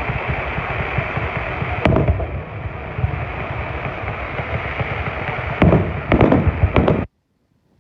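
Fireworks going off: a dense, continuous crackling with a loud bang about two seconds in and a quick run of bangs near the end, then the sound cuts off abruptly.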